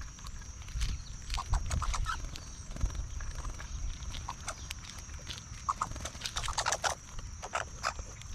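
Birds at a feeder: a busy run of short, irregular chirps and clicks, over a steady high-pitched whine and a low rumble.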